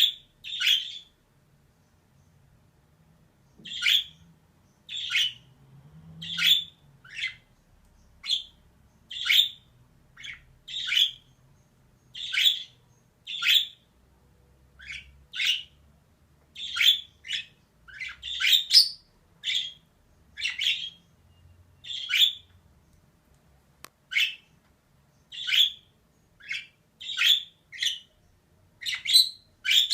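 Female budgerigar giving a string of short, sharp calls, about one or two a second, after a pause of a few seconds near the start.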